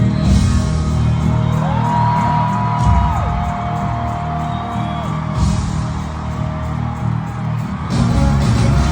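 Loud amplified stadium concert music with heavy bass and a singer holding one long note that drops to a lower pitch partway through. The crowd screams and whoops in surges near the start, midway and near the end.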